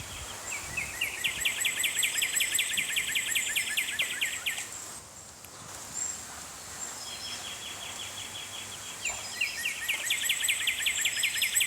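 A songbird sings a fast trill of repeated downslurred notes, about nine a second, in two long bouts with a pause between. Fainter high chirps of other birds sound behind it.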